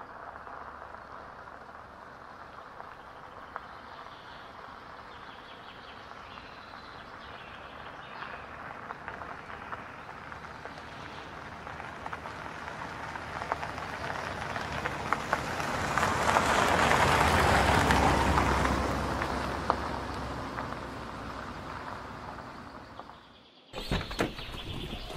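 A car approaching on a gravel track: tyres crunching on gravel over a low engine rumble, growing louder as it comes close about two-thirds of the way in, then fading before a sudden cut near the end.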